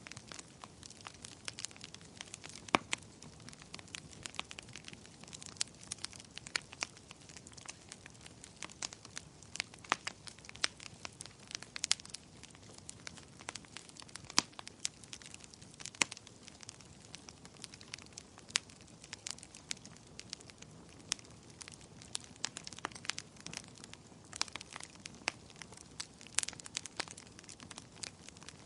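Wood fire in a fireplace crackling: irregular sharp pops and snaps over a soft, steady hiss of the flames.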